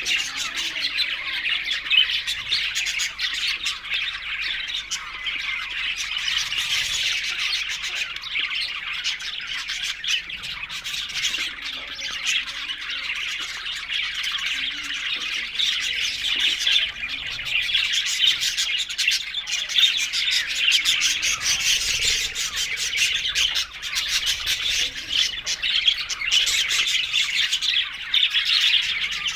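Budgerigars chattering and squawking continuously, a dense run of fast chirps and warbles with no break.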